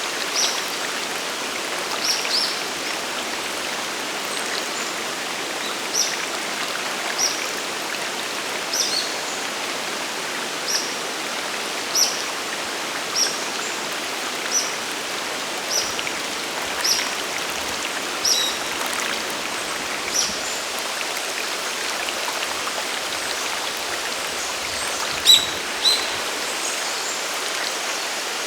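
Waterfall and its stream rushing steadily. Short high-pitched notes cut through it roughly every second or two, with two louder ones close together near the end.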